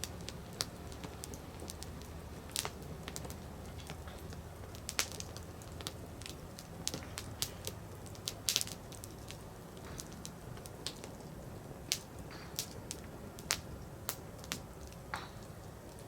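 Firewood burning in an open fire, crackling with irregular sharp pops over a low, steady rumble. The loudest cluster of pops comes about eight and a half seconds in.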